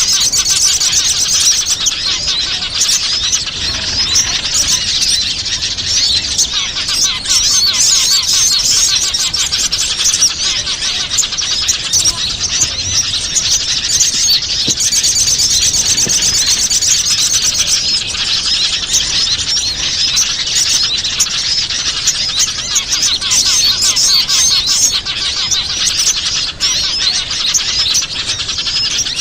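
A dense chorus of many small wild birds chirping and twittering without a break, a bird-lure (pikat) recording made to draw small birds in.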